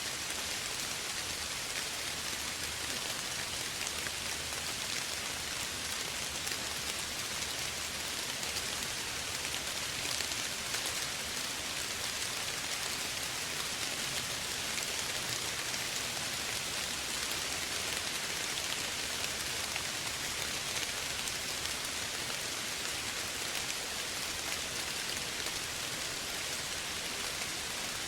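Steady gentle rain falling, a continuous even hiss with fine scattered drop patter on surfaces.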